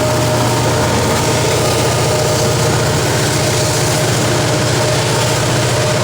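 Diesel locomotive engine running steadily: a low, pulsing drone with a steady whine above it.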